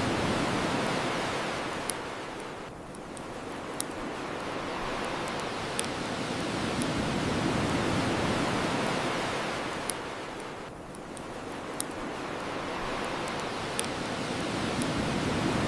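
Ocean surf washing in and out in slow swells about eight seconds apart, with sharp pops from a crackling bonfire about every two seconds.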